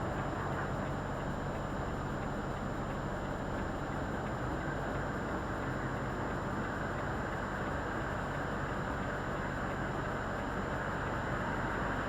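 Volvo FH artic lorry running, heard as a steady low engine hum and road noise at an even level, picked up by the dash cam.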